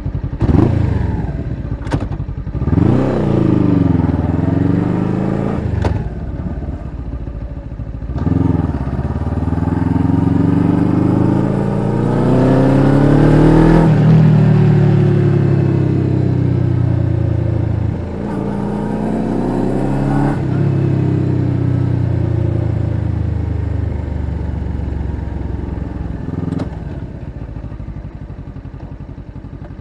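Suzuki GSX250R's parallel-twin engine breathing through an aftermarket slip-on silencer, accelerating through the gears. The pitch climbs, drops sharply at each of several upshifts and climbs again, then eases off near the end.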